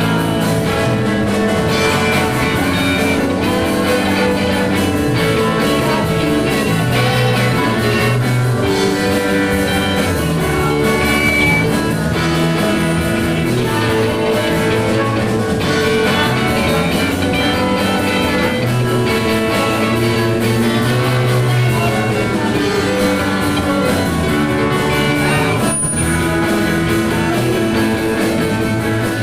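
Rock band playing with electric guitar and drum kit.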